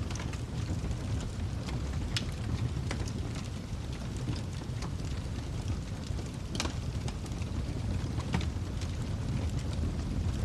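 Wood fire crackling: a steady low rumble of burning with scattered sharp pops and crackles. The loudest pops come about two, six and a half and eight and a half seconds in.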